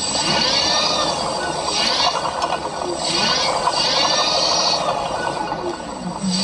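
Washing machine motor rewired as a brushless DC motor, running from an electronic speed controller with a rattling clatter. Its whine rises and falls in pitch several times as the speed goes up and down.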